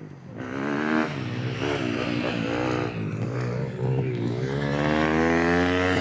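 KTM 250 four-stroke motocross bike coming toward the listener, its engine revving up and down with the throttle and shifts. It is loudest near the end as it comes close.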